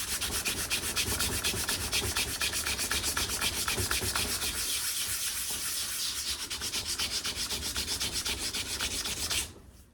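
Sandpaper rubbed by hand in rapid back-and-forth strokes over the rusty steel of an old axe head, scouring off surface rust. The strokes stop suddenly near the end.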